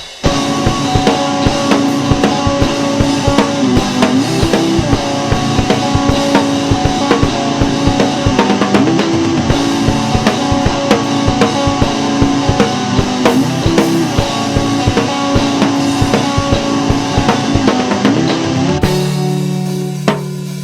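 Rock band playing: drum kit, bass and guitar come in together just after a drum lead-in and play steadily. Near the end the drums stop and a held low chord rings on and fades.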